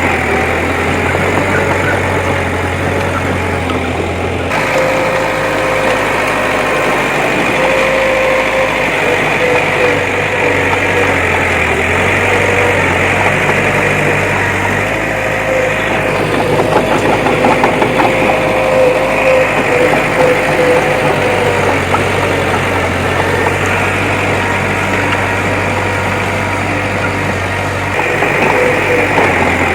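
Heavy earthmoving machine's engine running steadily, with a faint whine that comes and goes through the middle.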